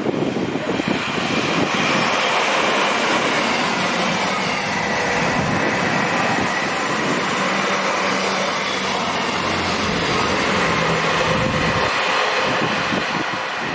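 A diesel multiple unit approaching and passing on the main line: a steady run of engine and wheel-on-rail noise, with a faint high whine over it.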